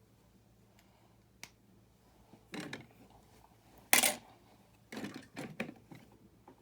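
Small plastic building-brick pieces clicking and knocking as they are handled and pressed together. There are a few light clicks at first, a sharp loud click about four seconds in, and then a quick cluster of clicks.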